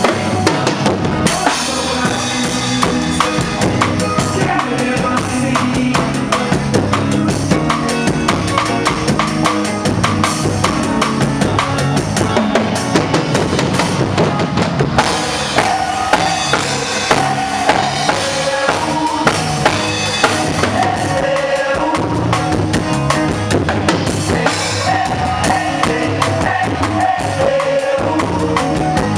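A band playing live, with a drum kit's bass drum, snare and rimshots keeping a steady beat under sustained pitched instruments.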